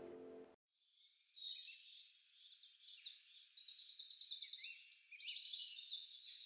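Songbirds chirping, with many short high chirps and several rapid trills that overlap, starting about a second and a half in. The tail of the song's music fades out at the very start.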